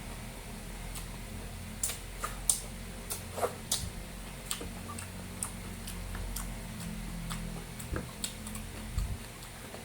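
Close-up eating sounds: irregular sharp clicks and smacks of chewing a mouthful of rice and beef, over a steady low hum.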